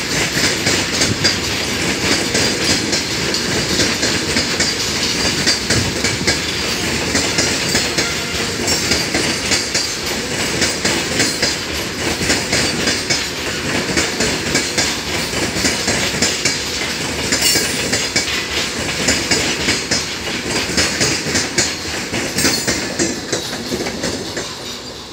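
BCNA covered goods wagons rolling past, their wheels clattering in a rapid, steady clickety-clack over the rail joints. The clatter eases slightly near the end.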